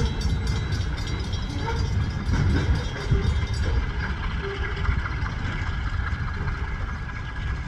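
Short freight train's last car, a covered hopper, rolling away on the rails with a steady low rumble. Light wheel clicks are heard for the first few seconds, then thin out as the train fades slightly.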